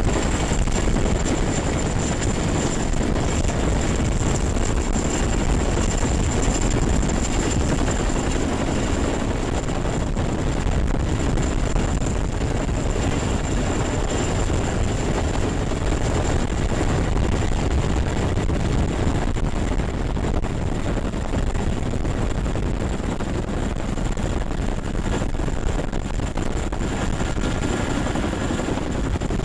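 Helicopter running: steady rotor and engine noise with a thin, high steady whine.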